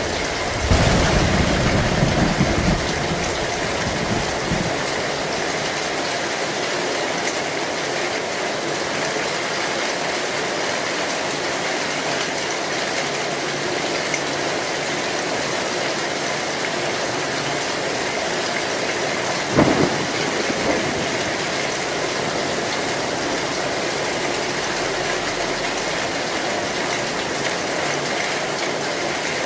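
Heavy rain drumming steadily on an old metal roof. A low rumble of thunder comes about a second in and lasts a couple of seconds, and a single sharp crack comes about two-thirds of the way through.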